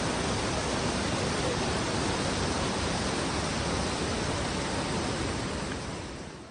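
Steady rushing noise of a large waterfall, easing off slightly near the end.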